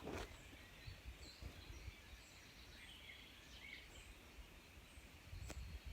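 Near silence: faint outdoor ambience with a few soft, scattered bird chirps and a couple of light clicks.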